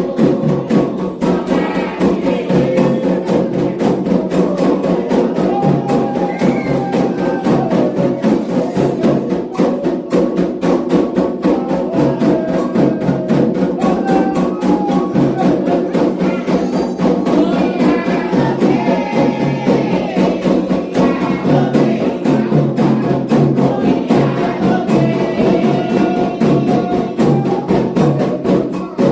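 Candomblé ritual music: atabaque drums playing a fast, steady rhythm, with a group singing a chant for Iemanjá over it.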